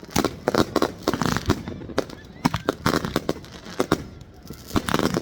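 Fireworks going off: many sharp bangs and crackles in quick, irregular succession, bunched most thickly near the start and again near the end.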